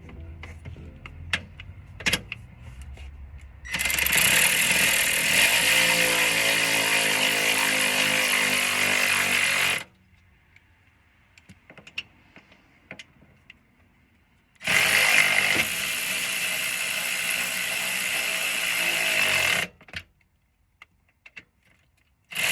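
A power tool runs in two long bursts of about six and five seconds, driving in the engine mount bolts. Light clicks and taps of tools being handled come before and between the bursts.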